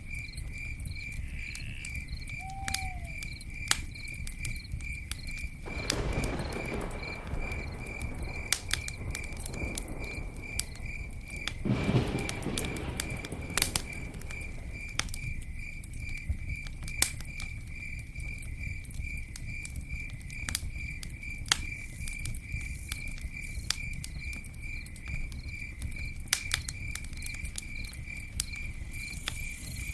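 Campfire burning: a low rumble with scattered sharp crackles and pops, and two short swells of rushing flame noise about six and twelve seconds in. Under it runs a steady high chirping, pulsed about twice a second.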